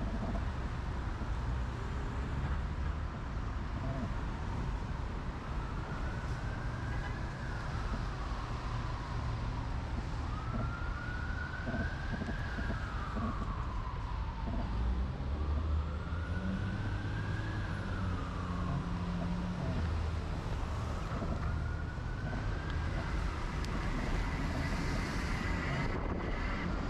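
Emergency vehicle siren wailing, rising and falling slowly in pitch over several cycles of a few seconds each, over steady wind and road rumble.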